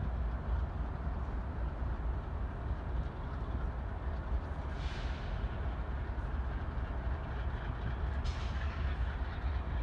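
Train passing with a steady low rumble, with brief hissing about five seconds in and again about eight seconds in.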